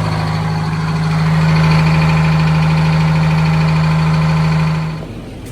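1971 Insley excavator's diesel engine running under hydraulic load as the JB Weld patch on a hydraulic line gives way. The engine sound swells a little about a second in, then drops sharply near the end as the engine is throttled back or shut down.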